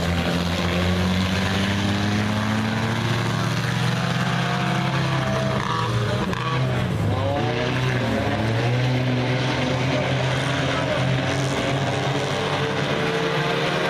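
Several stock-car racing engines running together at race speed, their pitch dipping and rising again about halfway through as the cars lift and accelerate.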